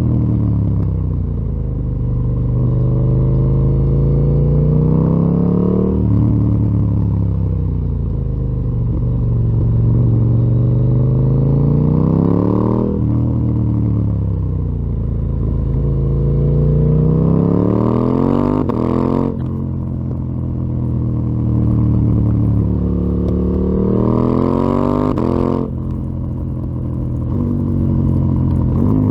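KTM Duke 890 R parallel-twin engine breathing through a full Akrapovic exhaust system while riding. It revs up and down, and its pitch breaks off sharply four times.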